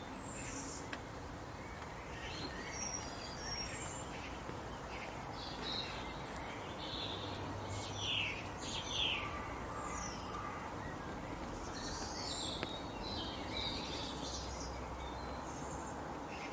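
Birds chirping in short, scattered calls over steady background noise, with a cluster of louder chirps near the middle.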